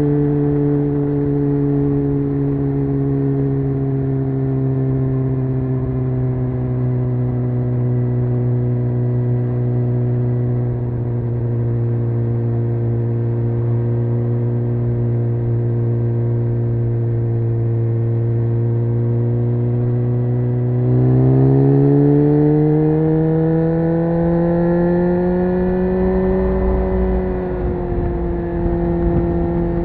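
Honda CBR600F inline-four engine running under way, its note sinking slowly as the bike eases off. About two-thirds of the way through the note steps up and climbs for several seconds as the throttle opens, then holds steady.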